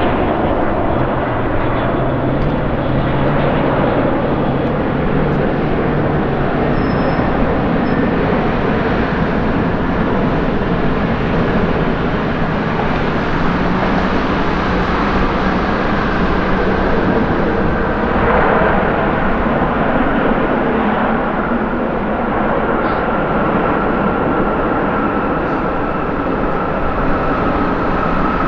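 Jet airliner's engines, a loud, steady rush of engine noise. A faint high whine comes in during the second half.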